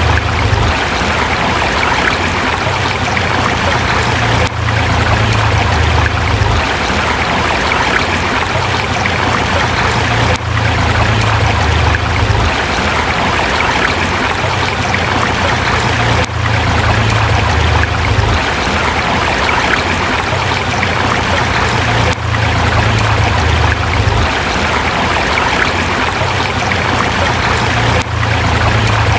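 Forest river rushing over rocks: a steady, full rush of water with a low rumble underneath that swells and fades every few seconds. The level dips briefly about every six seconds.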